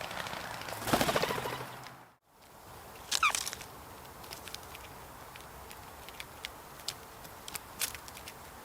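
Yard wildlife at a feeding spot: a loud rasping burst about a second in, then after a brief break a short call that bends in pitch, followed by scattered light clicks and taps.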